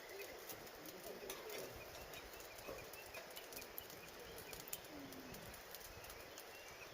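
Wood fire crackling faintly with scattered small pops and ticks, with birds calling faintly in the background.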